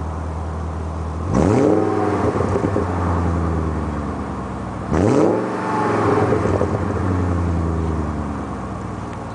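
BMW 740i engine idling and blipped twice, about a second in and again about five seconds in; each rev climbs sharply and then dies away back to idle.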